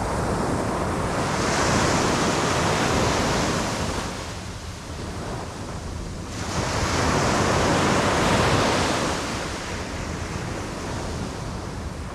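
Sea waves breaking on a beach: two surges about five seconds apart, each a rush of surf that swells and then washes back.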